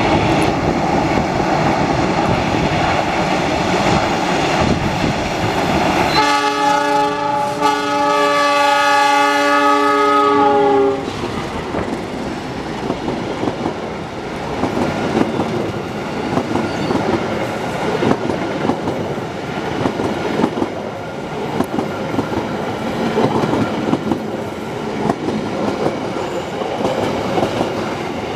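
Diesel locomotive of a passenger train passing close, its engine running loud, then sounding its horn in one long blast of about four and a half seconds. After the horn, the passenger coaches roll past with their wheels clicking over the rail joints.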